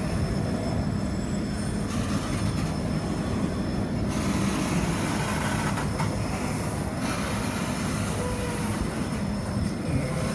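Grain train's wagons rolling slowly past on the rails, a steady rumble that shifts every couple of seconds as wagons go by, with a faint brief wheel squeal about eight seconds in.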